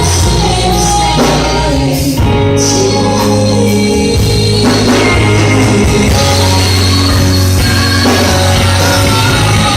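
Live worship band music with held bass notes and guitar, from an instrumental stretch of a choir's song.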